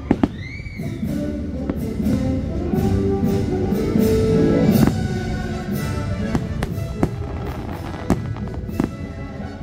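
Aerial fireworks bursting: a scatter of sharp bangs and crackles, with loud reports near the start and about 5, 7 and 8 seconds in, over show music playing throughout.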